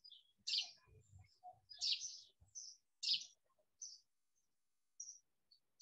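Faint short, high chirps of small birds, repeated about once or twice a second.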